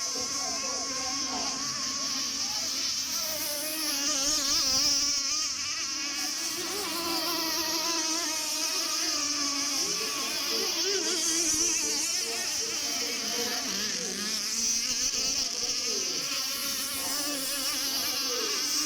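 Several 26cc two-stroke petrol engines of racing RC boats buzzing at high revs. Their pitches waver and overlap as the boats run.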